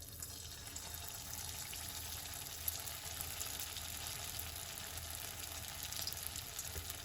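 Vegetable Manchurian balls frying in hot oil: a steady sizzling hiss with small scattered crackles, starting as they go into the oil.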